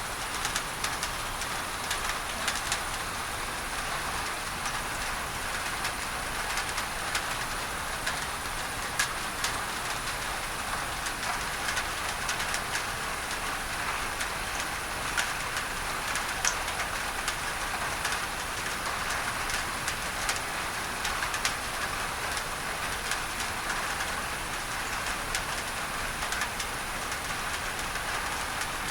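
Steady rain on a tin roof, with many individual drops ticking sharply on the metal, blended with an even hiss of tinnitus-masking noise.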